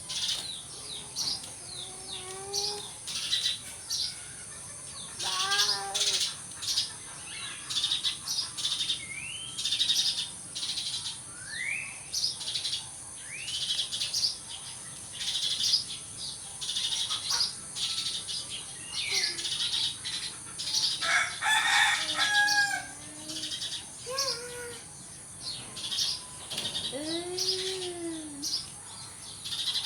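Sparrows chirping busily in short, quick notes, over a steady high-pitched drone. A few lower, drawn-out arching calls come in between, one near the end.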